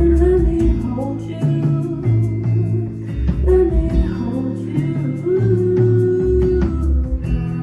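Live band playing a slow song with guitar, a held melody line carried over steady lower notes.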